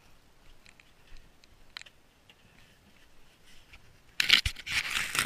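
Snow scraping and crunching in loud, irregular strokes, starting about four seconds in after a quiet stretch with a few faint clicks.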